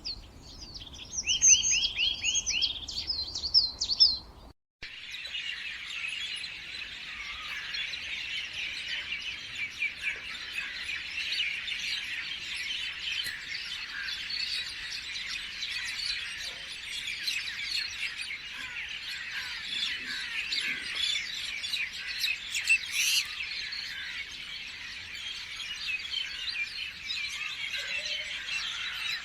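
A bird singing quick, repeated chirping phrases. After a brief break about four and a half seconds in, a dense chorus of many birds chirps and twitters continuously.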